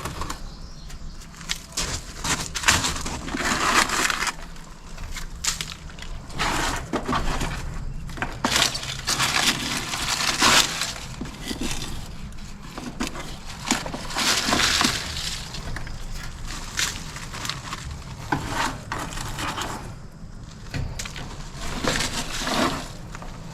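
Dry leaves and debris crunching and rustling in irregular handfuls as they are pulled out by hand from the bottom of an air conditioner's outdoor condenser unit.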